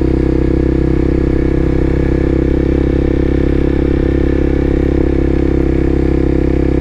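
Vehicle engine running at a steady pitch with road noise, a constant low drone while cruising at an even speed.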